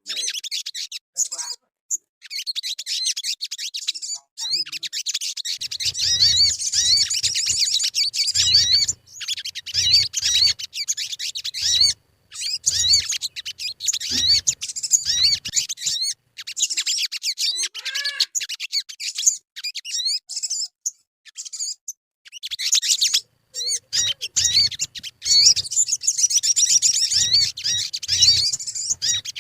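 Sogon bird song: rapid, high-pitched twittering chirps and trills in long runs, broken by short pauses, used as a lure call. A faint low hum comes and goes under it.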